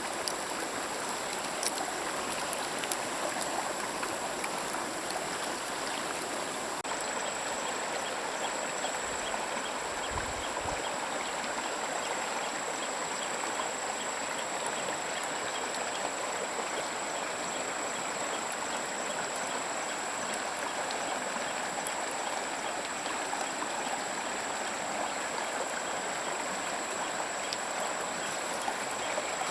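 Stream water flowing steadily, with a thin, steady high-pitched whine above it.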